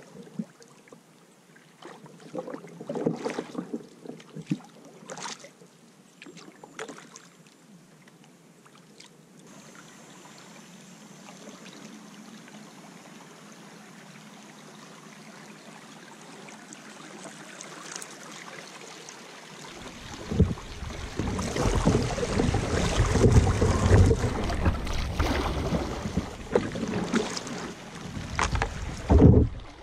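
Kayaks being paddled on a river: scattered knocks and splashes at first, then from about twenty seconds in much louder water noise with a low rumble, like wind buffeting the microphone.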